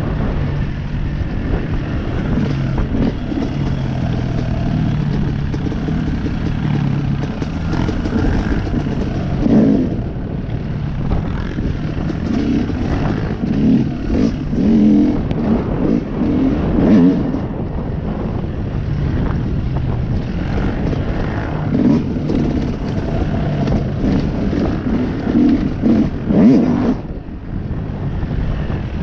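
Honda CRF110 dirt bike's small four-stroke single-cylinder engine running under riding load, with wind noise on the microphone. The revs climb in short bursts around the middle and again near the end.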